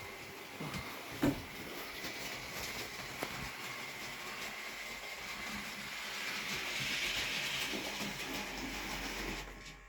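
Bachmann class 57xx model locomotive running along model track with three wagons: a steady whirr of the small motor and wheels on the rails, with occasional clicks and one sharp click about a second in. It grows louder partway through, then fades as it comes to a stop near the end.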